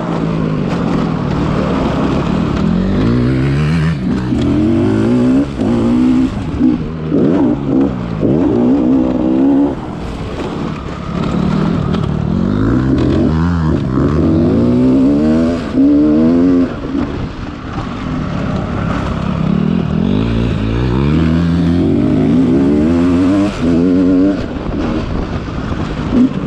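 Dirt bike engines under hard throttle on a motocross track. The pitch climbs and drops back over and over as the riders open and close the throttle and shift gears.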